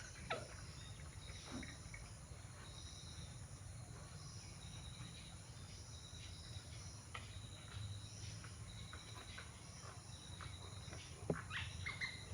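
Outdoor ambience of birds chirping: short high chirps repeat throughout, with scattered calls and clicks over a steady low rumble. A few louder chirps come near the end.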